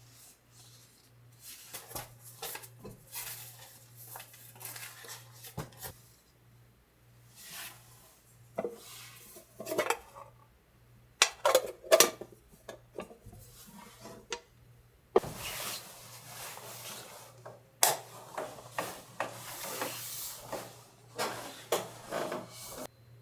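Kitchen dishes and utensils clinking and clattering during food preparation: irregular knocks and short scrapes, with a few louder clanks, over a faint steady low hum.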